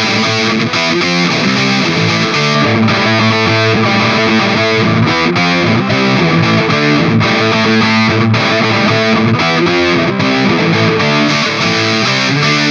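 Electric guitar played through a distortion pedal, with heavily distorted chords and riffs ringing out steadily and changing in quick succession.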